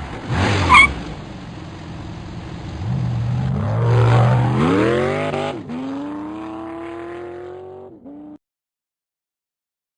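Ford Mustang Cobra's engine running, then accelerating: its pitch climbs steadily, dips briefly about five and a half seconds in, and climbs again. The sound cuts off suddenly about eight seconds in. A short, sharp, high squeal comes about a second in.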